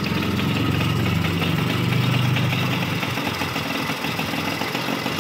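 Yamaha Chappy's two-stroke moped engine idling, now running on a Yamaha RS100 CDI wired in to cure its hard starting; its note falls away about three seconds in.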